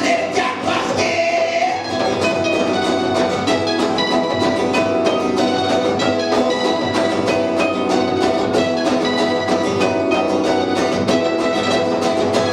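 Punk rock band playing a song live, with drums keeping a fast, steady beat under sustained instrument notes.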